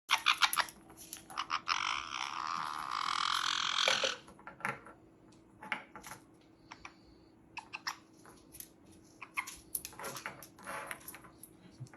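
Parrots at a nut: scattered sharp clicks and cracks of beaks working on the shell. Near the start there is a harsh, noisy sound lasting about two seconds.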